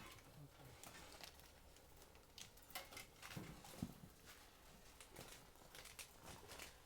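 Near silence with faint, scattered clicks and knocks, a few slightly louder ones between about two and a half and four seconds in.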